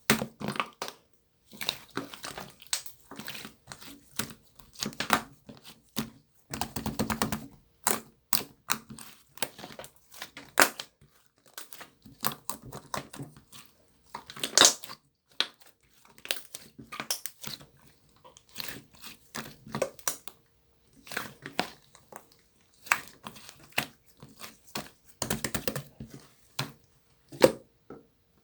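Slime being pressed and worked by hand, making irregular crackles and pops.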